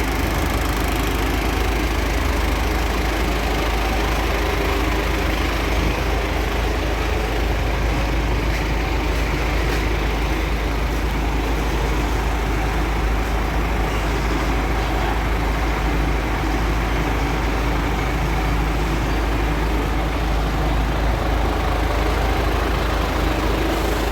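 Concrete mixer truck's diesel engine idling steadily with a constant low rumble.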